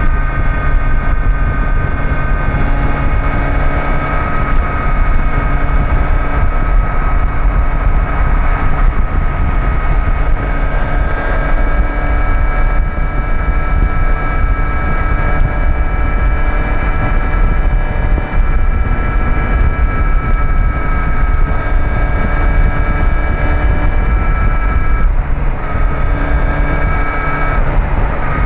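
Kawasaki Z900's inline-four engine running at a steady cruising speed with low wind rumble, its pitch holding nearly constant and shifting slightly near the end.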